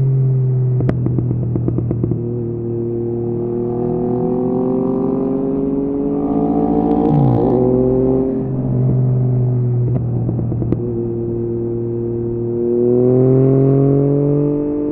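Yamaha MT-09's inline-three engine through an Akrapovic exhaust, ridden at low speed in traffic. Its pitch climbs slowly under gentle throttle, drops just after the middle, then rises again near the end. A quick run of sharp pops comes about a second in, and a few more around two-thirds through.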